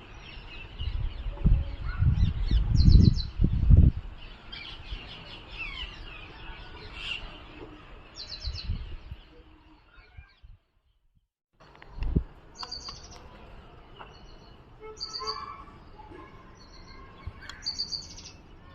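Small birds chirping and calling, with short repeated chip notes and twittering throughout. Low rumbling thumps sound in the first few seconds and once more after the middle, and the sound drops out completely for about a second near the middle.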